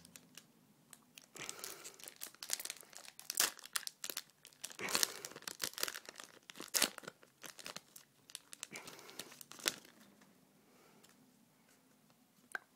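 Foil wrapper of a Pokémon trading-card booster pack being torn open and crinkled by hand: irregular crackling with sharp snaps, busiest in the middle and dying down near the end.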